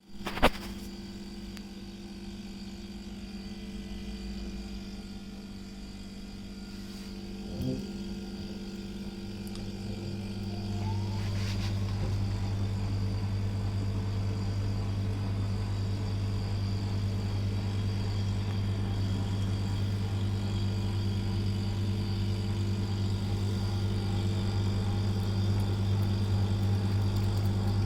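GE TFX27FMA side-by-side refrigerator running with a steady low hum; about ten seconds in a louder, deeper drone comes in and holds, the abnormal noise the owner is documenting as a fault.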